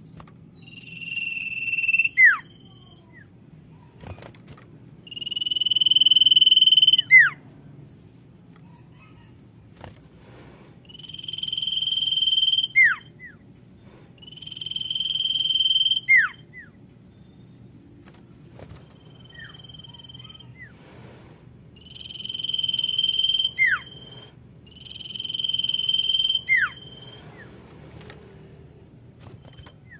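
Female common iora (sirtu) calling: long drawn-out whistles, each held on one note and ending in a quick downward slur, repeated about every three to five seconds. This is the female's call to a male.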